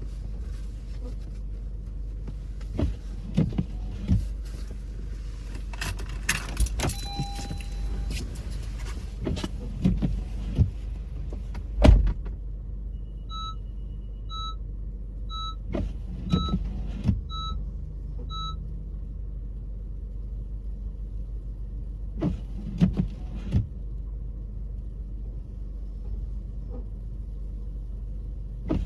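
Car interior while driving on a snowy road: a steady low rumble of road and engine noise with scattered knocks and thumps, one louder thump partway through. Around the middle comes a run of six short electronic beeps, about two every second and a quarter.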